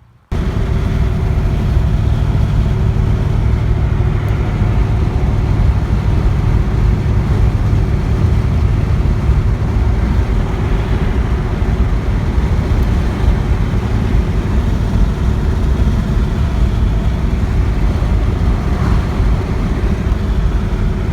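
2004 Mustang GT's 4.6-litre V8 running steadily with a cold air intake fitted. The sound comes in suddenly just after the start and stays loud and even, with no revving.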